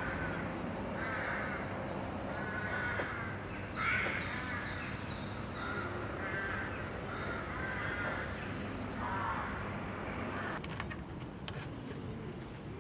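A bird calling over and over, about one call a second, the loudest about four seconds in; the calls stop about ten seconds in.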